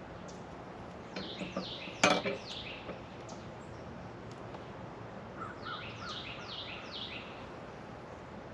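Bird chirping in two quick runs of short falling notes over a steady background hiss. A single sharp click or knock comes about two seconds in, during the first run.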